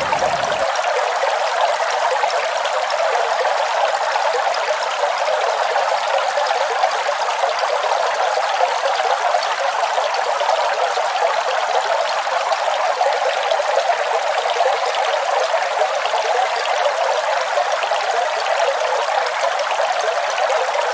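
Waterfall's falling water making a steady, even rush. The deep low end drops out about half a second in, leaving a thinner hiss with no rumble.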